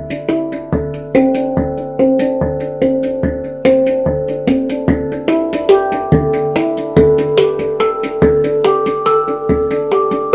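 Handpan played with the hands: a flowing run of struck notes, several a second, each ringing on, over deeper low notes struck about once a second.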